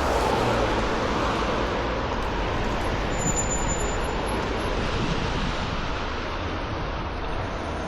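Road traffic passing on a city street: a steady rush of tyres and engines with a low rumble, loudest in the first couple of seconds as a vehicle goes by, then easing off slightly.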